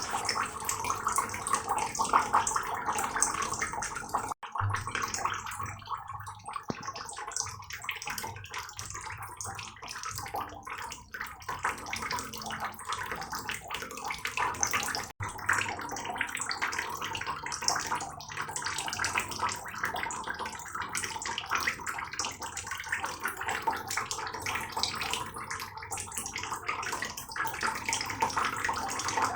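Heavy rain falling steadily, a dense patter of drops and splashes, with two very brief cut-outs about four and fifteen seconds in.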